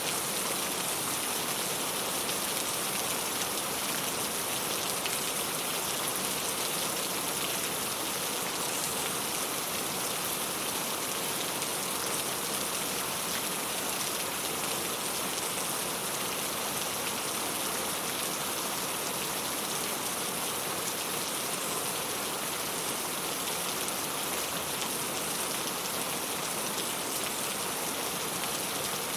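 Steady rain falling on a clay-tile roof, an even patter of drops that holds at the same strength.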